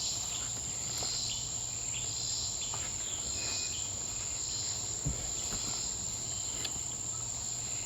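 Steady high-pitched chorus of insects: cicadas together with Say's trigs, small crickets, calling without a break.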